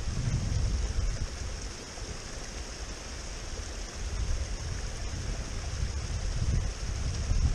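Wind buffeting the camera microphone in uneven low rumbles, easing about two seconds in and building again toward the end, over a steady rushing hiss.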